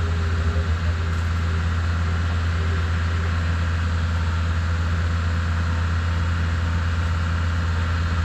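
A vehicle engine idling steadily, a low, even hum with no change in speed.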